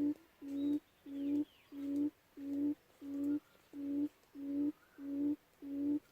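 Lure quail call: a low hooting note repeated steadily about one and a half times a second, each note swelling and then cutting off sharply. Faint chirps of other small birds sound above it.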